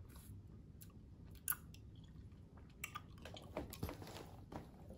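Chewing and crunching of a hard snack stick with a white filling, close to the mouth: a sharp crunch about one and a half seconds in, then a run of crunches in the second half.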